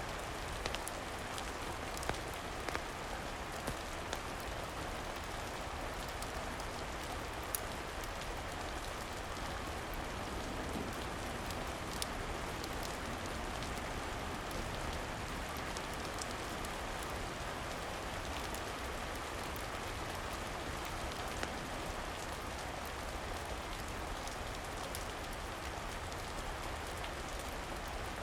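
Steady rain falling, an even unbroken hiss, with a few sharp pops scattered through it.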